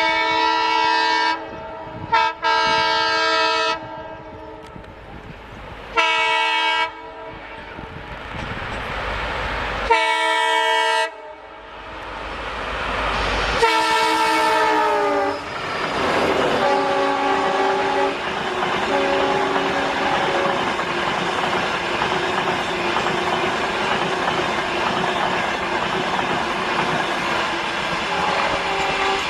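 Train horn sounding four blasts as the train comes closer and louder, then a final long blast that drops in pitch as it passes. After that comes the steady rumble and clatter of the train's cars rolling by.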